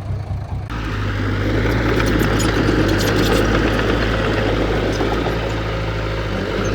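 Heavy earthmoving machine's diesel engine running steadily under work, with a rushing, clattering noise over it. The sound becomes abruptly louder and fuller just under a second in.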